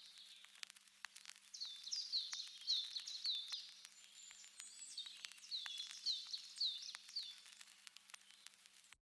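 Faint bird song: two phrases of quick, repeated high notes that slur downward, each lasting about two seconds, over a faint steady hum and scattered clicks. The sound cuts off near the end.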